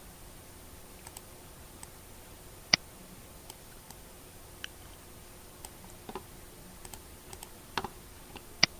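A few scattered, isolated clicks of computer input over a faint steady hiss, the sharpest about three seconds in.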